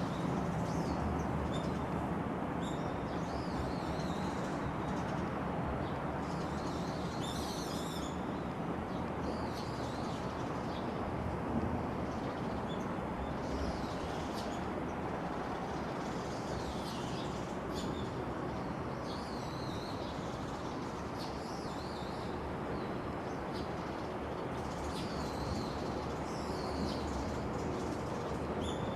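Several birds chirping in short, scattered calls over a steady background noise.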